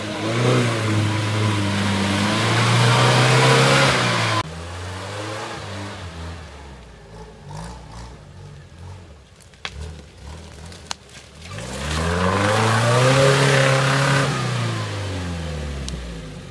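Off-road UAZ-469's engine revving hard and steady as the 4x4 churns through swamp mud, cut off suddenly about four seconds in. Then a quieter engine with a few sharp knocks, before an engine revs up, holds and falls away again near the end.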